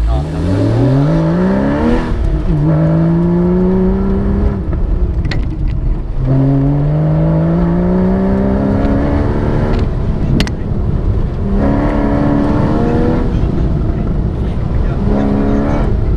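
Porsche 911 flat-six engine heard from inside the cabin, accelerating hard in about five pulls, its pitch rising with each one and then dropping back at each shift or lift.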